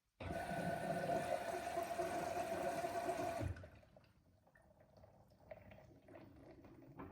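LG washing machine taking in water: the inlet valve opens with a sudden rush of water that cuts off abruptly about three seconds later, followed by quieter trickling and dripping inside the machine.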